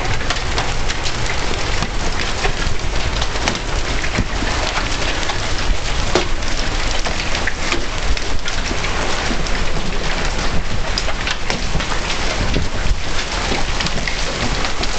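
Hail and heavy rain pelting down in a severe thunderstorm: a dense, steady hiss scattered with many sharp hits of hailstones, over a low rumble of storm wind.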